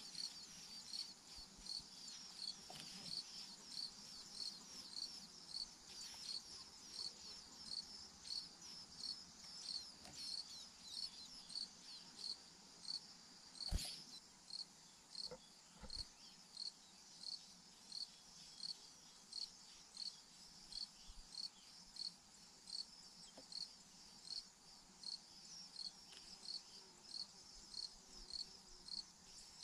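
Insect chirping in a steady rhythm, about three short high chirps every two seconds, with one sharp click about fourteen seconds in.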